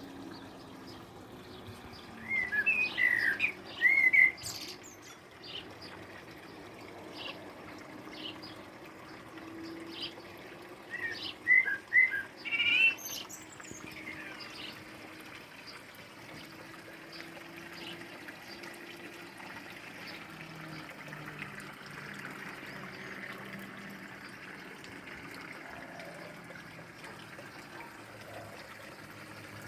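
Songbirds chirping in a garden, with two loud bursts of quick chirps about two seconds in and again around eleven seconds, over fainter calls and a steady trickle of water.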